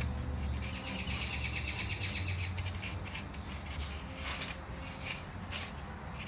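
A bird sings a fast, high trill for about two seconds near the start, over a steady low hum. A few brief rustles follow later on.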